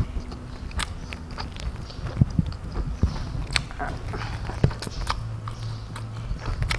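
Close-miked eating: irregular wet clicks and crackles of chewing fried egg omelette, rice and instant noodles, with occasional taps of metal tongs against the food and plate.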